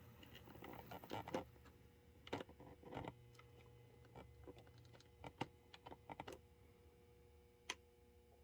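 Faint, irregular small clicks and taps, bunched in two clusters with one sharper click near the end, over a faint steady hum.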